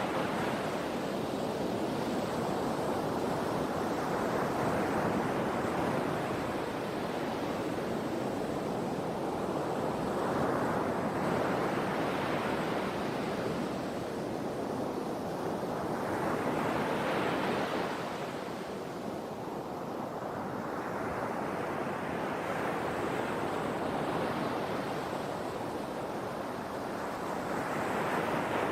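Sea waves washing onto the shore, each wave swelling into a hiss and then falling back every several seconds, over a continuous rush of surf.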